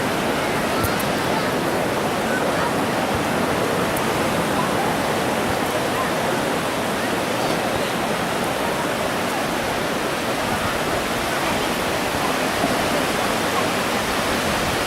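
Ocean surf on a beach: a steady, even rush of breaking and washing waves.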